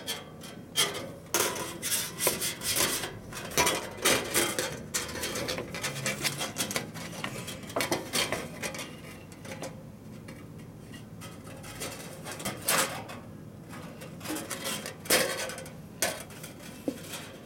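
Thin metal plates and parts of a fire pit clinking, scraping and clattering as they are handled and fitted together, in irregular bursts, busier in the first half with a couple of louder clanks later.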